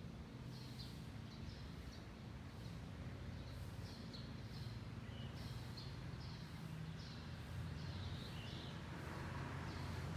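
Small birds chirping, short high calls repeating every fraction of a second, over a steady low background rumble. A broader rush of noise builds near the end.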